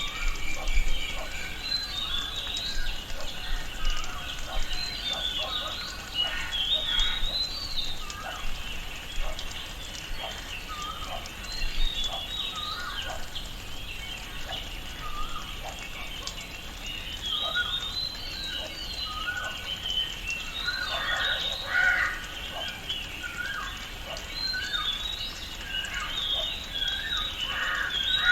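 Tropical rainforest ambience: many birds chirping and calling at once in an overlapping chorus of short, high calls, with a denser, louder flurry of calls about three-quarters of the way through.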